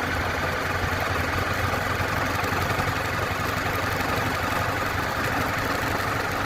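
Small motorcycle engine running steadily at an even speed.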